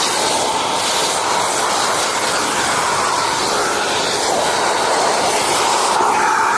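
Kärcher WD 4 S 1000 W wet/dry vacuum cleaner running, a loud steady rush of air with a whine whose pitch wavers slightly.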